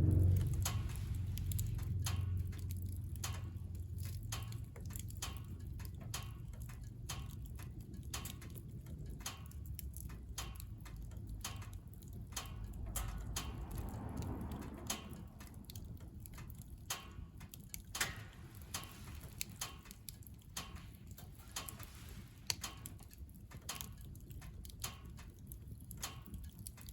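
Wood fire crackling in a wood-burning stove: irregular sharp snaps and pops over a low rumble that fades in the first few seconds.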